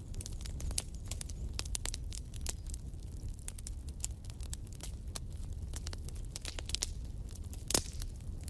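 Wood fire in a fireplace crackling, with irregular sharp snaps over a steady low rumble and one louder pop near the end.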